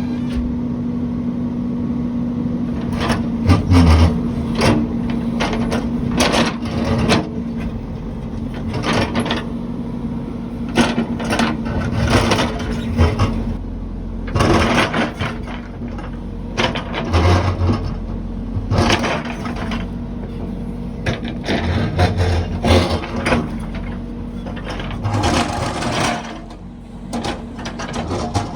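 Heavy construction machine's diesel engine running steadily, with many irregular metallic clanks and knocks from the machine working.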